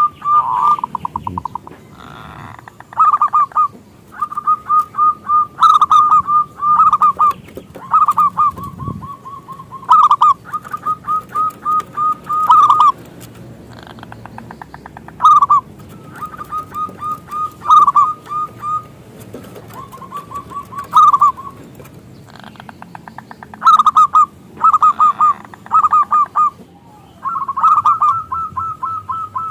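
Zebra dove (perkutut) cooing: phrases of quick, rhythmic coo notes, each about one to two seconds long, repeated every couple of seconds.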